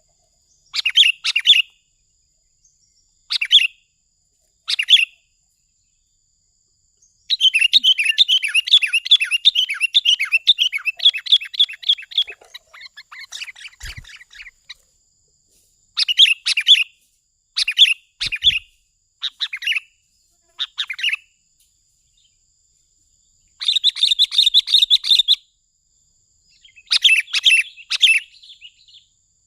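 Sooty-headed bulbul (kutilang) calling in short bursts of quick, bright chattering notes, with one long run of chatter about a third of the way in. The calls are gaps apart and come in irregular groups.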